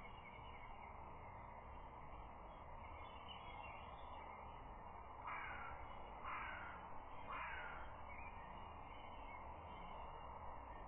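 A bird gives three short calls about a second apart, each falling slightly in pitch, over a steady outdoor hiss with faint chirping of small birds.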